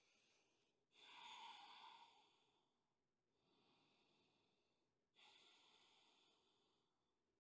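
Faint, slow breathing: long airy breaths, the two clearest about a second and about five seconds in, with softer breaths between, taken slowly while a stretch is held.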